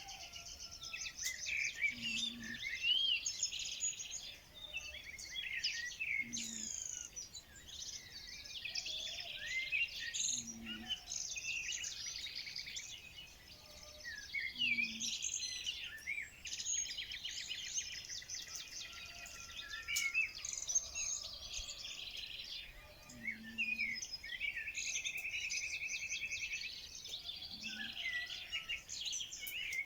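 A dense chorus of many songbirds singing and calling over one another, with rapid chirps, whistled glides and trills. A short low hooting note recurs every few seconds beneath them.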